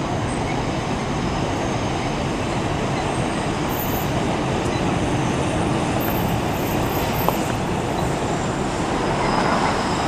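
Yamanote Line electric commuter train running along an elevated viaduct: a steady rumble of wheels on rail, mixed with city road traffic, swelling a little near the end.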